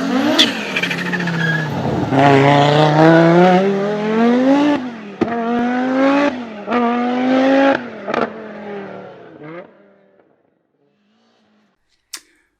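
A car engine accelerating hard through the gears. Its pitch climbs, then drops at each gear change, four or five times, before fading away about ten seconds in. A short click comes near the end.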